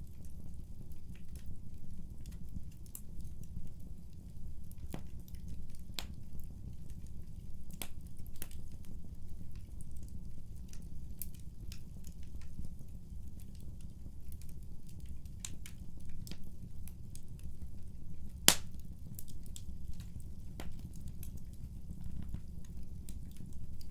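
Wood fire burning with a steady low rumble and irregular sharp crackles and pops, the loudest a single crack about eighteen seconds in.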